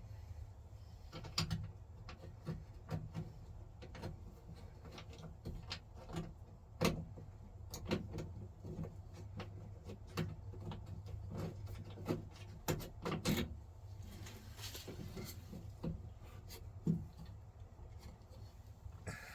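Irregular clicks and knocks of hand work on a square-body Chevy truck's door latch and handle mechanism, with a cluster of sharper knocks about 13 seconds in, over a steady low hum.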